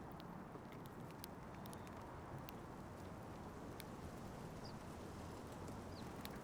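Birds feeding at a bird feeder: scattered sharp taps and clicks of beaks pecking seed, over a steady low outdoor rumble, with two faint short chirps near the end.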